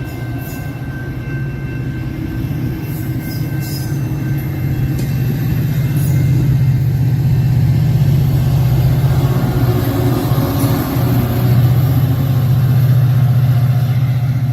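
A steady low mechanical rumble, like a vehicle running, growing louder over the first several seconds and then holding steady.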